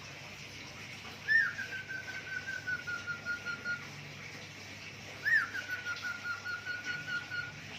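Pet cockatiel whistling mimicry: two phrases, each a quick rising-and-falling note followed by a rapid run of repeated short notes that drift slightly lower in pitch.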